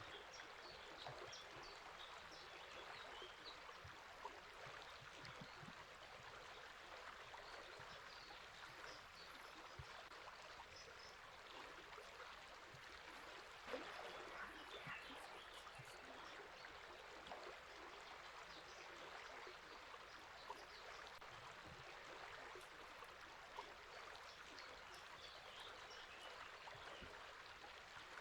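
Quiet, steady rush of a flowing river, with faint bird chirps scattered over it and a slightly louder splash of water about fourteen seconds in.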